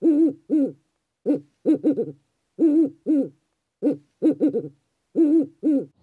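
An owl hooting: short low hoots in a repeating phrase, a pair of single hoots and then a quick run of three, over and over.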